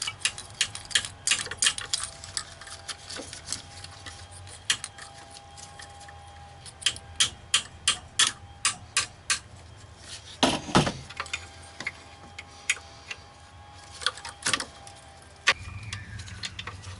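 Ratchet wrench clicking in runs of quick, evenly spaced clicks as a nut is backed off, with a louder metal knock about halfway through.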